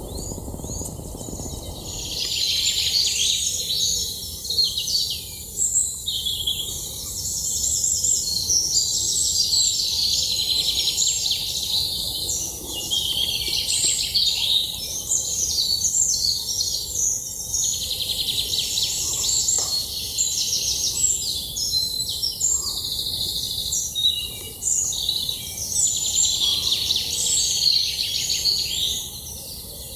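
Birds singing and chirping in a dense, busy chorus that sets in about two seconds in and dies down near the end, over a low steady background rumble.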